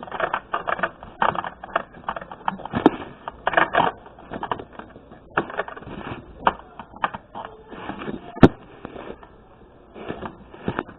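Irregular clicks and knocks of small hard objects being handled and set down, with one louder knock past the middle.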